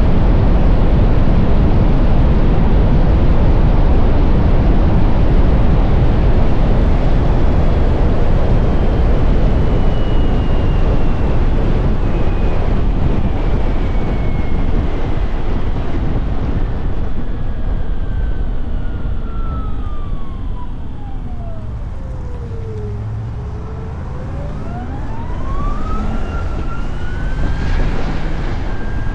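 Can-Am Pulse electric motorcycle riding, its motor whine falling steadily in pitch as the bike slows to a crawl about two thirds of the way in, then rising again as it pulls away. Wind rush on the microphone is heavy at speed and drops off as the bike slows.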